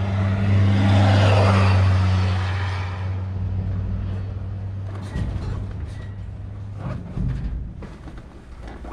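A motor vehicle passes close by on the road: a steady engine hum and tyre rush swell to a peak about a second in and fade away by about three seconds. A few short knocks follow later.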